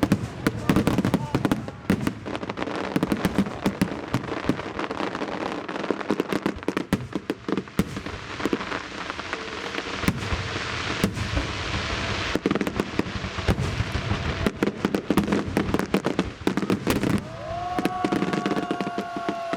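Aerial fireworks bursting in a dense barrage: rapid overlapping bangs and crackling, with a hissing stretch about halfway through. A steady held tone joins near the end.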